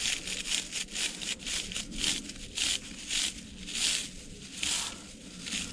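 Copper winding wire being pulled out of the paper insulation of an electric motor's windings: a run of short, scratchy tearing and rustling strokes, about two or three a second.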